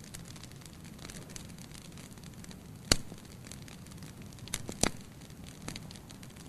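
Fire burning in a fireplace, crackling: a steady low rumble of flame under frequent small crackles, with a sharp loud pop about three seconds in and another near the five-second mark.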